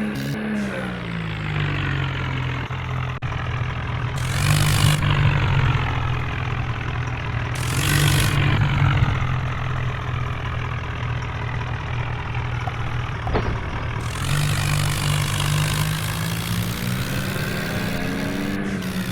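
Tractor diesel engine pulling hard under load. The engine note drops about a second in, holds low, and climbs again near the end, with two loud bursts of rushing noise around the fourth and eighth seconds.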